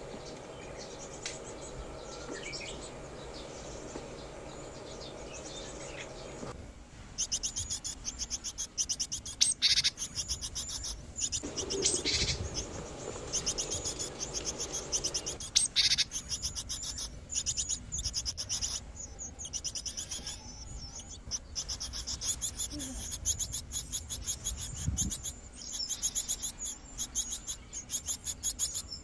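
Birds chirping in long runs of rapid, high repeated calls, a few of them louder, over a steady low hum that stops about six seconds in.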